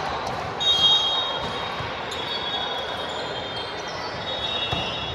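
Volleyball play in a gym: high squeaks of sneakers on the hardwood court come and go over a steady crowd hubbub, with a few dull thuds of the ball. The loudest squeaks come about a second in.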